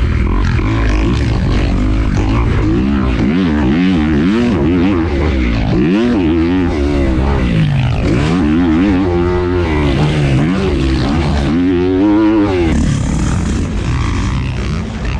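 Dirt bike engines revving up and down over and over as they are ridden around a track, with a steady low rumble underneath.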